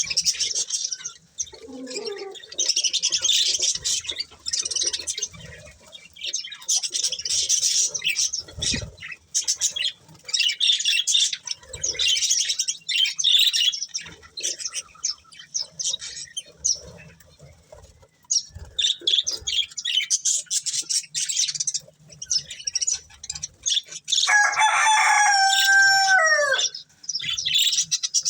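Budgerigars chattering and chirping in bursts of quick, high warbles. Near the end comes one louder call of about two seconds that falls in pitch.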